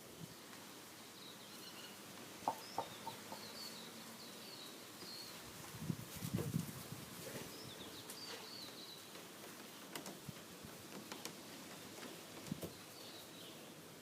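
Faint birds chirping in the background, with a few soft knocks and rustles, the loudest cluster about six seconds in.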